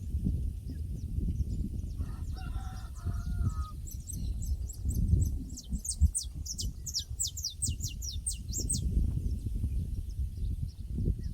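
Pasture ambience: a rooster crows once about two seconds in, then a small bird gives a rapid run of high, falling chirps. A steady low rumble runs underneath.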